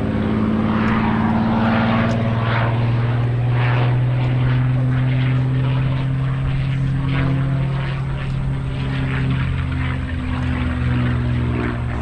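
P-51 Mustang's V12 piston engine and propeller in flight, a loud steady drone whose pitch shifts slightly as the plane moves past.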